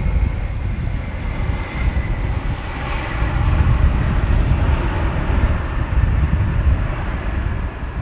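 Airliner engines running with a steady high whine over a heavy, gusting low rumble of strong wind buffeting the microphone.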